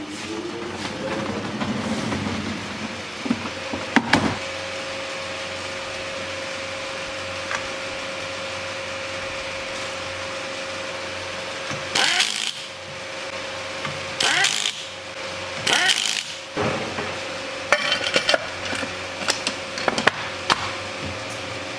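Hand tools and metal engine parts being worked on a workbench: a few short scraping strokes and scattered clinks and clicks over a steady workshop hum.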